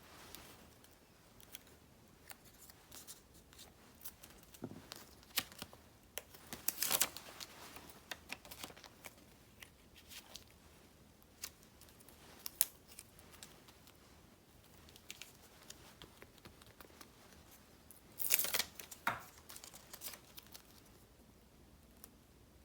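Sticker paper being handled and cut at a desk: scattered small snips, taps and clicks, with two louder stretches of paper noise, about seven seconds in and again about eighteen seconds in.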